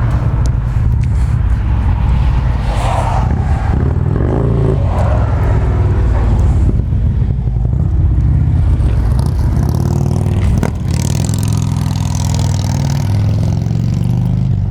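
The factory-exhaust Twin Cam 103 High Output V-twin of a 2014 Harley-Davidson Ultra Classic (FLHTCU) running steadily at idle. There is a single sharp click about ten and a half seconds in.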